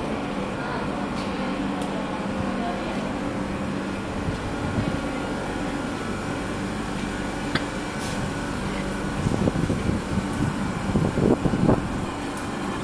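Standing Tren de la Costa passenger train humming steadily at the platform, its air-conditioning and auxiliary equipment giving a low, even drone with two steady tones. A few irregular thumps and rustles come up toward the end.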